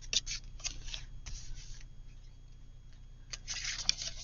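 Paper and cardstock being handled: a few short rustles and scrapes, with a longer sliding rustle partway through and busier rustling near the end.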